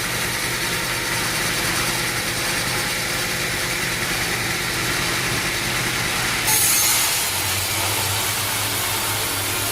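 Sawmill machinery engine running steadily, with a sudden hissing surge about six and a half seconds in, after which the low hum changes.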